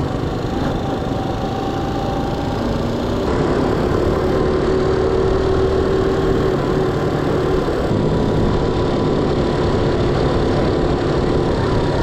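Motorbike engine running steadily while riding, getting louder about three seconds in.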